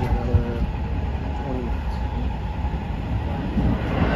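Train running along the line, heard from inside the carriage: a steady low rumble of the wheels on the track.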